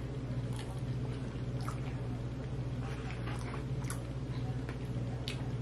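A person chewing a bite of chicken sandwich with the mouth closed: soft wet squishing and small scattered clicks over a steady low hum.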